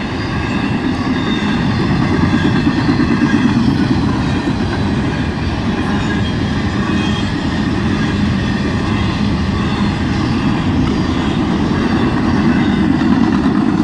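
CSX intermodal freight train's container cars rolling past, a steady rumble of steel wheels on the rails.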